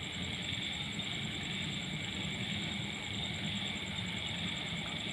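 A stopped train's diesel engine running steadily at idle, with a fine, even high-pitched pulsing tone above it.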